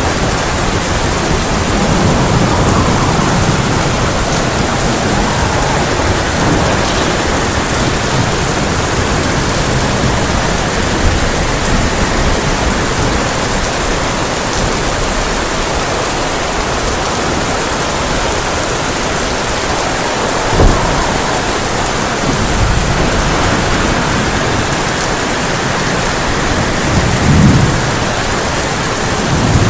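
Heavy rain drumming steadily on a tin roof, with low rolls of thunder. A sharp thunder crack comes about two-thirds of the way in, and another rumble near the end.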